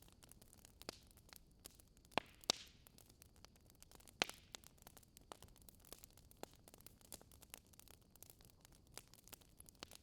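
Wood fire crackling, with irregular small snaps and a few sharper pops, two close together about two seconds in and another about four seconds in.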